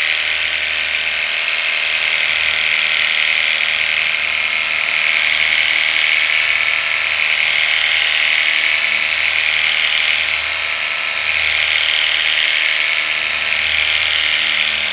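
Worx WG633 Hydroshot cordless pressure washer running steadily while spraying through its mister nozzle. The brushless motor and pump give a high, steady whine over the hiss of the water spray.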